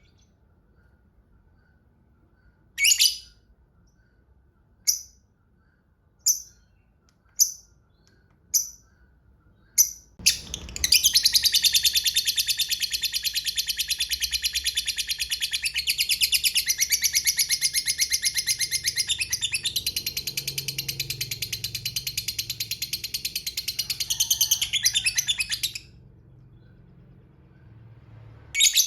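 Lovebird calling: first a string of short, sharp chirps, then one long, unbroken, fast chattering trill (the 'ngekek panjang' that keepers prize) lasting about fifteen seconds, then a single chirp near the end.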